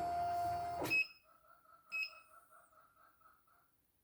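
Computerized embroidery machine running with a steady motor whine that cuts off with a click about a second in. Its electronic beeper then gives short high beeps, twice, over a faint pulsing tone.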